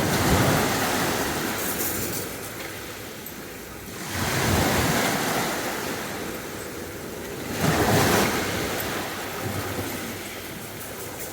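Sea waves breaking on the beach: three waves in turn, about four seconds apart, each one surging in and then fading as it washes back.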